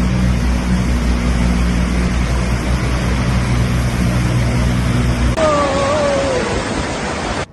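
Flood torrent rushing, with a steady engine hum over it for the first five seconds or so. After a cut the engine is gone and a short wavering, falling tone sounds briefly over the rushing water.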